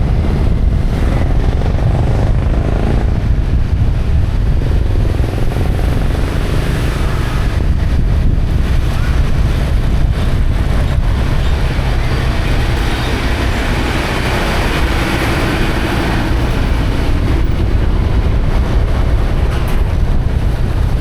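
Motorcycle running on the road, heard with loud, steady wind noise on the microphone.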